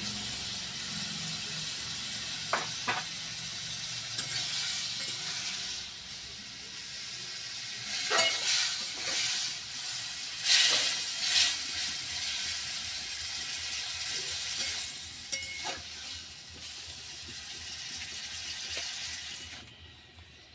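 Mango pieces sizzling in hot oil and molasses in a metal pan, with a metal spatula scraping and clinking against the pan as it stirs, loudest a little past the middle. The sizzle drops off suddenly near the end.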